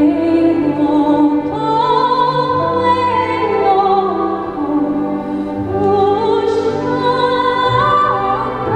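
A woman's classical-style soprano voice singing a slow Taiwanese folk song, holding long notes with vibrato over instrumental accompaniment, captured on a handheld audience recording.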